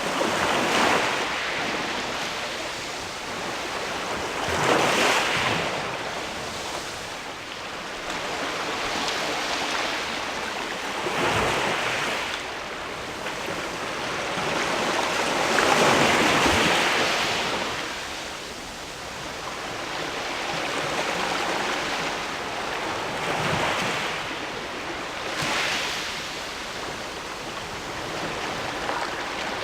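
Sea waves washing against a rocky shore below a sea cliff. The wash swells and falls away every few seconds, with the loudest surge around the middle.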